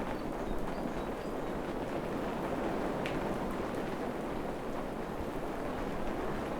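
Steady rain falling on forest foliage, an even hiss with no let-up. There are a few faint short high notes and a single sharp drip about three seconds in.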